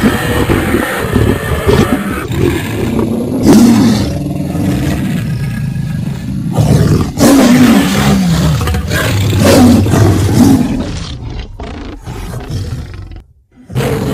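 Loud cartoon roaring from an animated lion and an animated girl, drawn-out roars that rise and fall in pitch, broken briefly by a short silence near the end.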